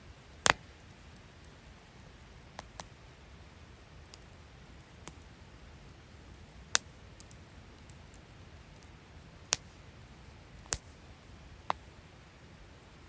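Wood fire crackling: sharp, irregular pops and snaps of burning wood, a handful of loud ones among fainter ticks, over a low steady hiss.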